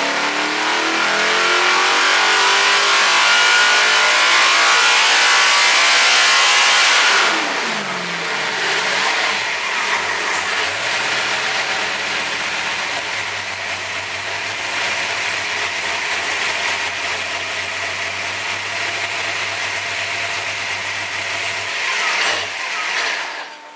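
Carbureted 440 cubic inch small-block Chevy V8 racing engine on an engine dyno, running at wide-open throttle with revs climbing to the end of a dyno pull. About seven seconds in, the throttle closes and the revs fall away, and the engine runs on at a lower speed. It gives a short blip near the end and then shuts off.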